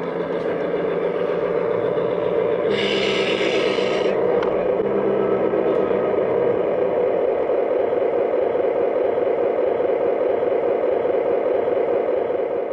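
A G scale garden-railway model train running steadily along its track, with a steady clatter and scrape of wheels on rail. A brief higher hiss or squeal comes about three seconds in.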